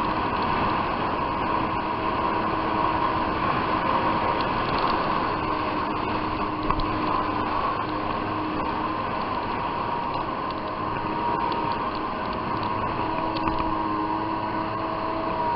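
Jet ski engine running steadily under way: a dense rattling mechanical drone with a steady high whine over it.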